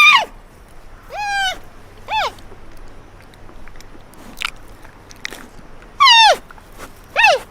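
An animal calling: several short, high cries, each rising and then falling in pitch, with longer pauses between some of them.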